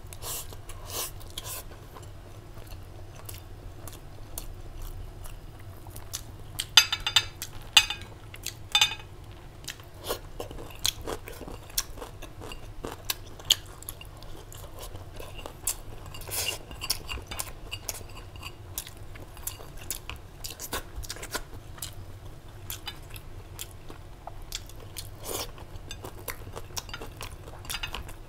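A person chewing and biting food, with crunchy bites and small clicks of utensils on a plate; a run of loud crunches comes about seven to nine seconds in.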